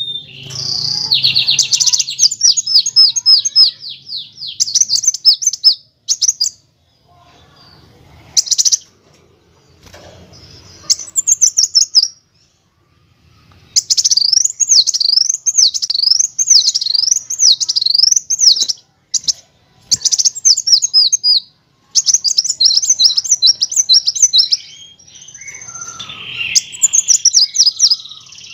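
Kolibri wulung sunbird singing: fast, high-pitched chirping phrases and rapid rattling trills, broken by short pauses. It is the 'nyrecek' rattle and 'ngerol' trill song used as masteran for training caged birds.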